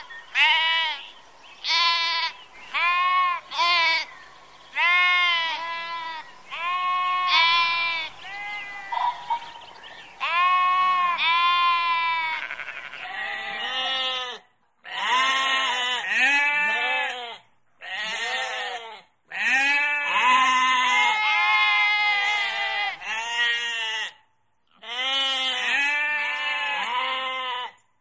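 Sheep bleating over and over, about one wavering call a second. The calls are higher-pitched in the first half and lower-pitched from about halfway, where a hiss also sits behind them.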